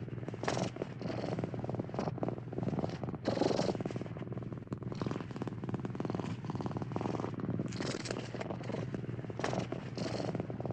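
Domestic cat purring, a continuous rumble that swells and eases in level every few seconds.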